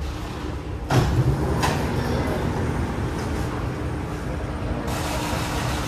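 MRT train running, heard from inside, with steady rumbling running noise. A sudden loud jolt comes about a second in, a second sharp knock follows shortly after, and a faint steady hum joins partway through.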